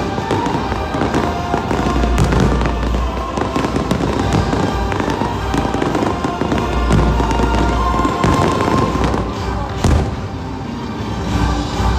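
Fireworks display set to music over loudspeakers: dense crackling and popping shell bursts with low booms, and a sharp bang about ten seconds in.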